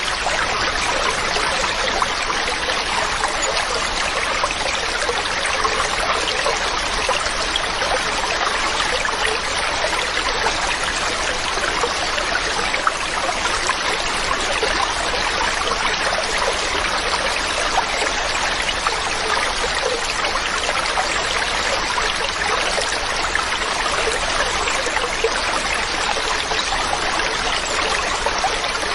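Mountain stream running over rocks: a steady rush of flowing water with fine splashing and trickling and no change in level.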